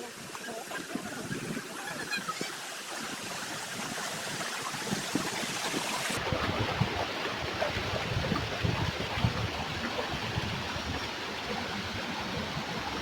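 Rushing water of a stream and waterfall, a steady hiss that slowly grows louder. About six seconds in the sound changes abruptly and gets fuller and deeper.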